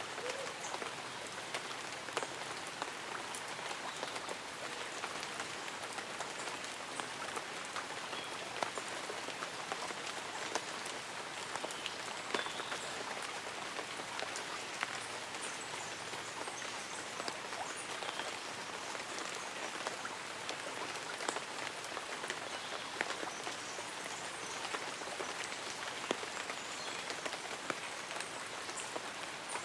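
Light rain falling on leaves and an umbrella: many separate drops ticking over a steady hiss.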